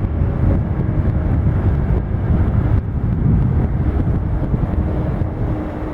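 Wind buffeting a handheld camera's microphone outdoors: a loud, uneven low rumble.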